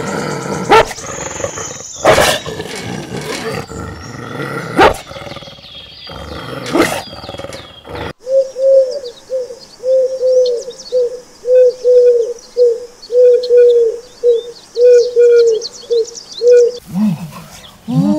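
Pigeons cooing: a run of short, evenly repeated low coos, some in pairs, through the second half. Before that comes a jumble of knocks and noise.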